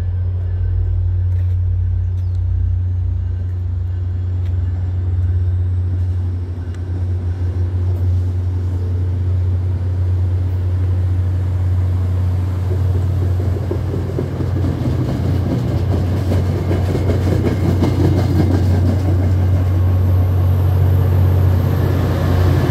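MBTA commuter rail train rolling past a station platform: a steady low drone with wheel-on-rail rumble as the coaches go by. The rumble thickens and grows louder in the second half as the diesel locomotive at the rear draws near.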